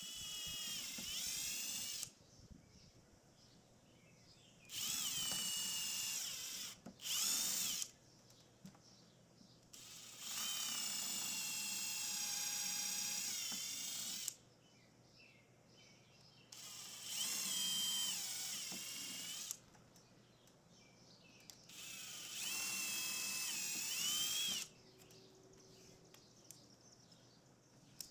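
Power drill running in about six separate bursts of one to four seconds each, its whine bending in pitch within several bursts, consistent with driving screws to fasten the dirt dividers to the loam screen.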